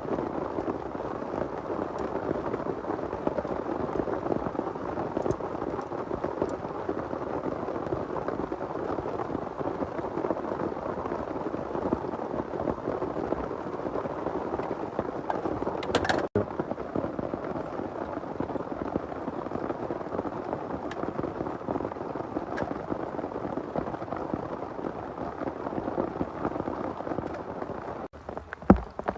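Heavy rain pouring steadily. About halfway through there is a single sharp crack, and near the end a short dull thump.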